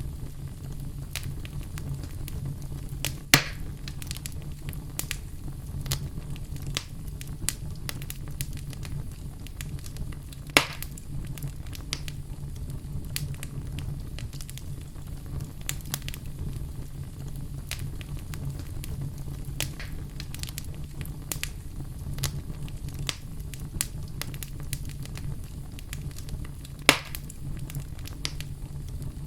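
Fire burning in a fireplace: a steady low rumble with scattered small crackles and three loud, sharp pops.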